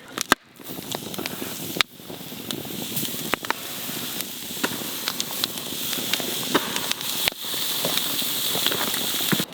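Pork chops sizzling on a hot grill grate over a campfire: a steady hiss that builds over the first few seconds, with sharp pops and crackles scattered through it.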